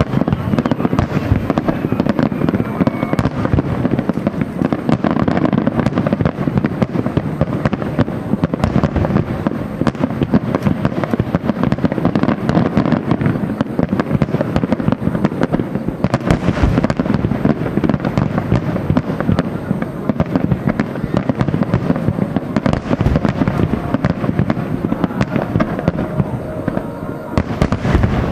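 Fireworks display in a dense barrage: shells bursting one after another in a rapid, unbroken run of bangs and crackles.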